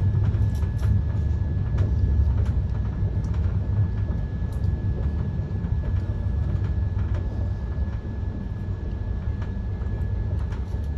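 Passenger train running, heard from on board: a steady low rumble with scattered clicks of the wheels over the track and a faint steady high whine.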